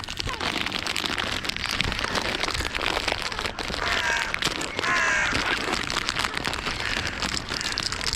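Crow cawing twice, about four and five seconds in, over steady wind noise and light rustling clicks.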